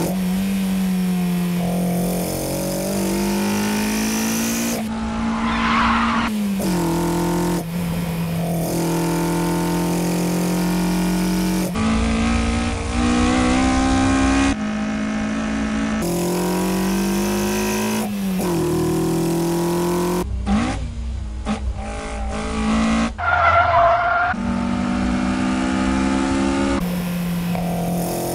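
Sports car engines running hard at high revs, the note holding steady with short rises and falls and jumping abruptly between takes. Tires squeal twice, about five seconds in and again about twenty-three seconds in.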